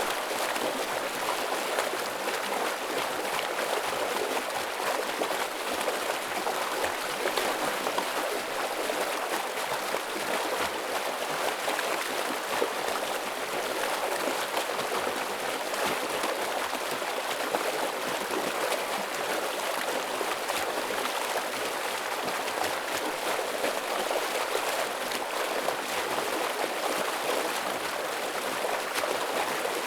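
Heavy stream water rushing and splashing steadily, an even, unbroken flow.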